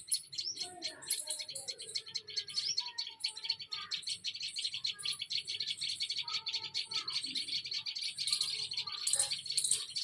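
A flock of small birds chirping in a dense, continuous chorus of rapid high chirps, with scattered lower calls among them.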